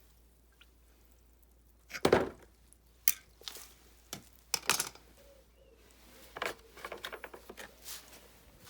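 A series of sharp knocks and clanks of hard objects being handled, the loudest about two seconds in, followed by several more and then a run of lighter taps.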